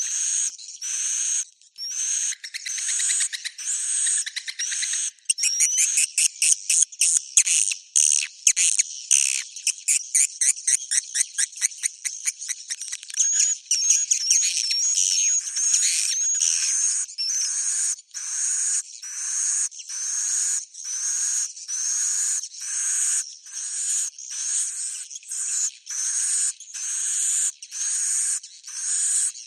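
Swiftlet roosting-call lure track: high-pitched twittering chirps repeated about one and a half times a second. From about five seconds in to about thirteen seconds, a fast rattling trill of clicks runs at several per second, then the steady chirping returns.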